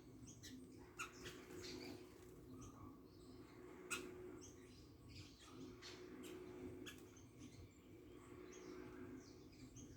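Faint, scattered chirps of small birds, with sharp single clicks about one second and four seconds in, over a faint steady low hum.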